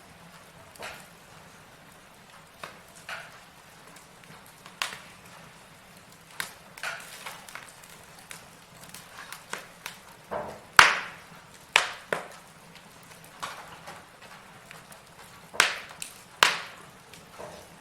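Wood logs burning in a fireplace, crackling with irregular sharp pops and snaps over a faint hiss. The pops come every second or two, and the loudest comes a little past the middle.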